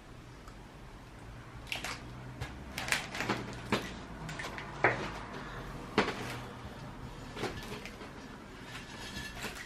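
Handling sounds from repotting a cactus: a plant pot and potting mix being shifted about, giving a few sharp knocks and clicks with scraping and rustling in between. The loudest knocks come about five and six seconds in.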